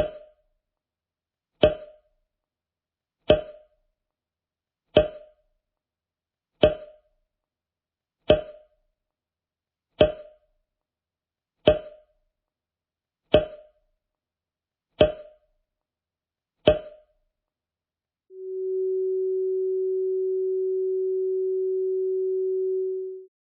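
Synthesized sound effects: a short, pitched pop repeated eleven times at an even pace, about one every 1.7 seconds, then a steady pure sine-wave tone held for about five seconds near the end.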